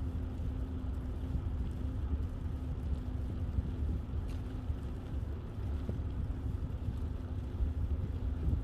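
Wind buffeting the microphone of a moving bicycle, a steady low rumble that flutters with the airflow, with a faint steady hum underneath.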